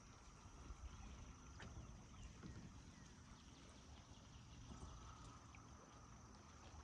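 Near silence on the water: a faint low rumble with a few light clicks and drips from a kayak paddle.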